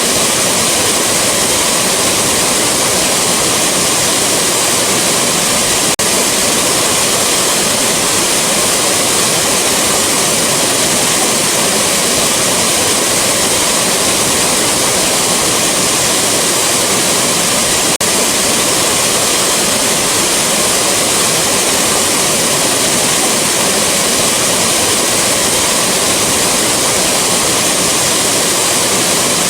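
Rushing waterfall: a steady, loud, unbroken roar of falling water, with a faint click about six seconds in and another near eighteen seconds.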